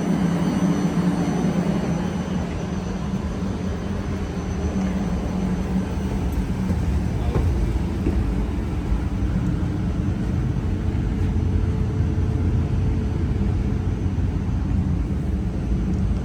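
Passenger train running: a steady low rumble with a hum that is strongest in the first couple of seconds, and the rumble grows somewhat heavier in the second half.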